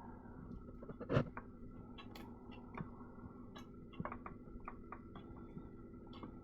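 Small clicks and knocks from a 1960s reel-to-reel tape machine as its tape is threaded and handled, over a steady hum. One louder knock comes about a second in.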